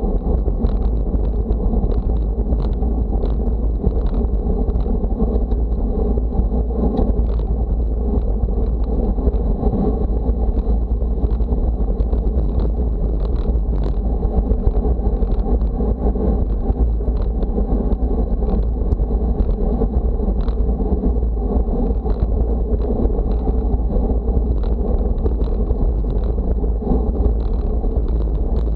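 Wind buffeting the microphone while moving at speed: a steady, heavy rumble, mixed with a rushing road or tyre noise and scattered faint clicks.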